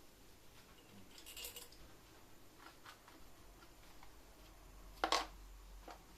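Small hard objects being handled: a brief jingling rustle, a few faint ticks, then one sharp clack about five seconds in.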